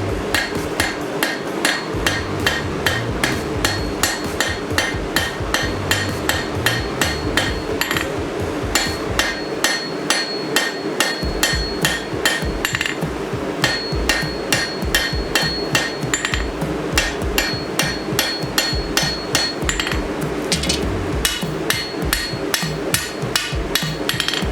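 Hand hammer striking hot sword-blade steel on an anvil at about two blows a second. Most blows ring, over a steady low rush.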